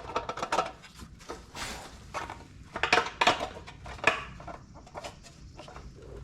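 Irregular metal clinks, rattles and scrapes of a sheet-metal cover being worked into place on an old 5 hp Briggs & Stratton engine.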